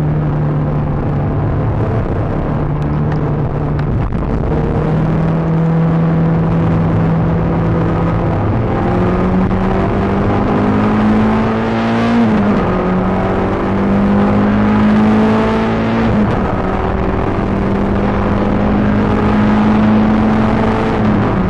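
Peugeot 306 GTi-6's four-cylinder engine under load, heard from inside the car. Its note climbs slowly and drops sharply twice, about twelve seconds in and again near the end, as the driver changes gear.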